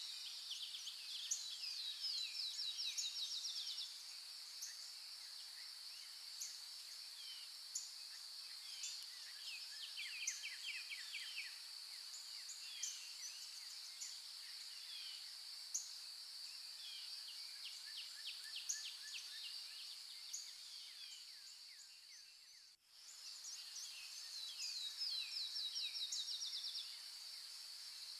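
Birds calling and trilling over a steady high-pitched insect drone, with scattered short chirps and a few fast rattling trills. The whole nature recording fades out and straight back in about four-fifths of the way through, like the seam of a loop.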